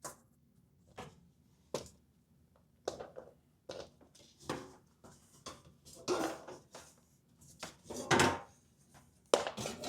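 Irregular short knocks, clicks and clatters of the refrigerator's rear cover and parts being handled and fitted back on, sparse at first and heavier from about six seconds in, loudest around eight seconds.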